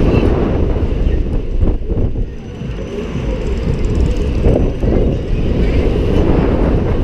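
Loud rushing wind and machinery noise heard from a rider's seat on a moving fairground thrill ride, briefly easing a little between two and three seconds in.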